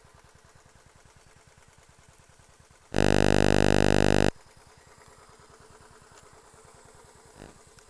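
A loud, flat electronic buzz lasting about a second and a half, starting about three seconds in, over a faint low background.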